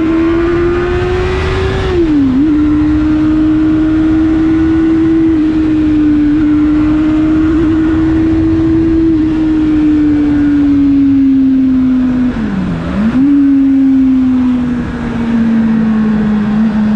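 Motorcycle engine running at a steady cruising note, picked up by a GoPro Hero 7 whose microphone is covered with sponge to damp wind noise, so the engine comes through over only a low rumble. The pitch dips sharply twice, about two seconds in and again near thirteen seconds, and eases lower toward the end.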